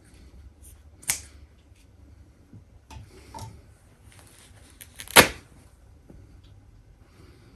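A stuffed toy being torn apart by hand: short, sharp sounds, one about a second in and a louder one about five seconds in, with softer handling sounds between.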